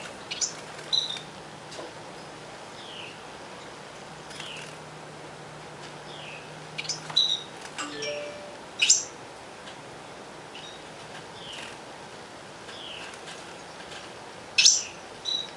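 Small birds chirping: short, downward-slurred chirps repeating every second or two, with a few louder, sharper chirps among them.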